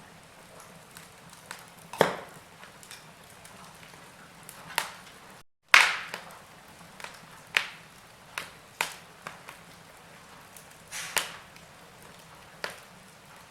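Wood fire crackling in a fireplace: sharp pops and snaps every second or so over a soft steady hiss. The sound cuts out completely for a split second about five and a half seconds in, and the loudest pop comes just after.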